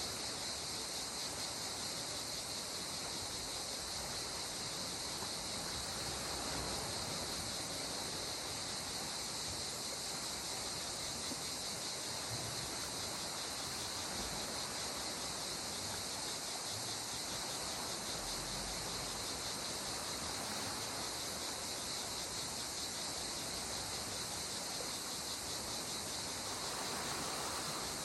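A steady, high-pitched chorus of insects, fine and fast-pulsing, over a soft, even wash of calm sea water.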